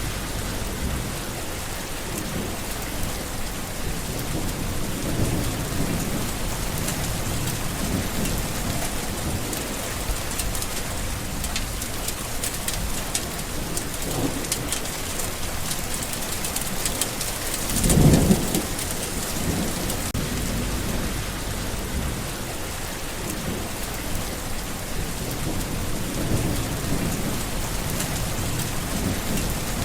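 Steady heavy rain falling, with low rolling thunder rumbling underneath and one louder thunder roll a little past halfway through.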